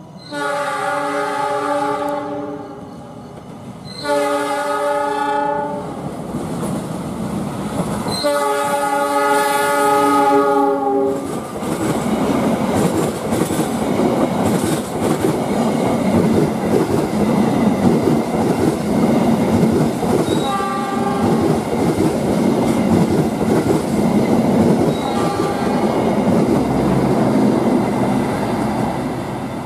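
Diesel locomotive horn of the Turangga express sounding three blasts, the third the longest, as the driver's greeting to the railfans. Then the train's carriages pass close at speed in a loud, steady rumble, with two short, fainter horn notes later on.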